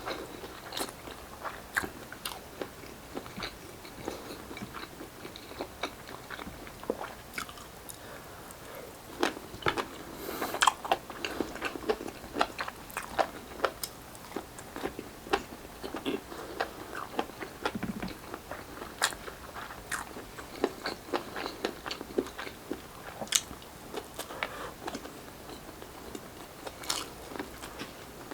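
Close-miked eating: a person biting, crunching and chewing grilled Filipino street-food barbecue with wet mouth noises, in irregular crunches that come thickest about ten seconds in.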